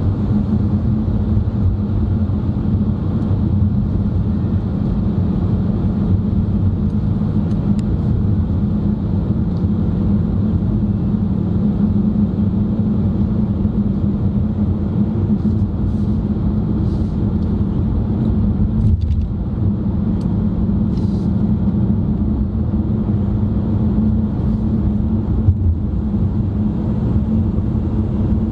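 Steady road noise of a car driving, its engine and tyres heard from inside the cabin, a constant low hum with a few faint ticks.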